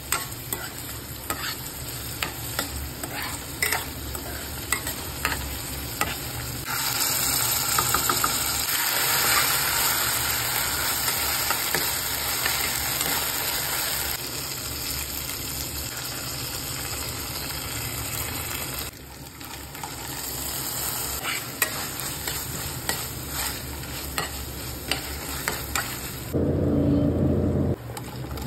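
Sliced onions and green chillies sizzling in hot oil in a pan, with a spatula stirring and scraping against the pan in frequent short clicks. The sizzle grows louder for several seconds in the middle, and there is a brief low, muffled rumble near the end.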